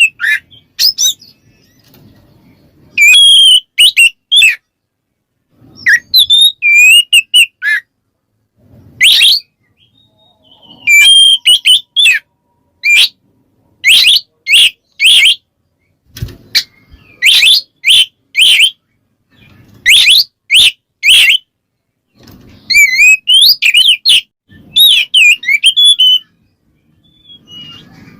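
Oriental magpie-robin (kacer) singing its loud 'ngeplong' song, a challenge call to rival males: repeated phrases of clear whistles and quick sweeping chirps in bursts, with short pauses between them.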